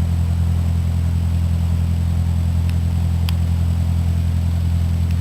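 Cessna 152's four-cylinder Lycoming engine and propeller droning steadily at an unchanging pitch, with a couple of faint clicks.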